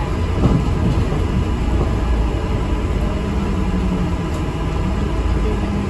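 ADL Enviro400 MMC double-decker bus heard from inside the cabin while under way: a steady low engine and road rumble, with a low engine note holding level from about halfway through.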